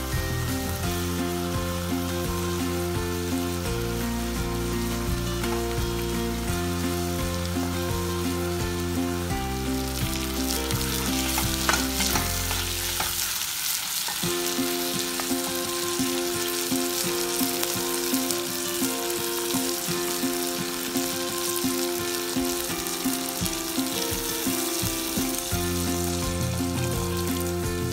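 Diced chicken frying in a pot with a steady sizzle, stirred with a wooden spatula. Background music plays throughout, its bass dropping out for a stretch about halfway through.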